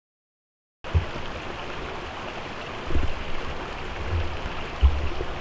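Silent for just under a second, then the steady rush of a small river's flowing water, with a few short low thumps.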